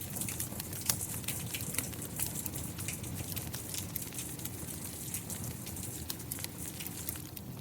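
Steady rain together with a wood fire crackling: many short sharp pops and clicks scattered over an even hiss and a low rumble.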